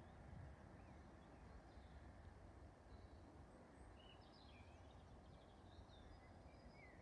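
Near silence: faint outdoor background with distant birds chirping now and then, several short calls about four to five seconds in and more near the end.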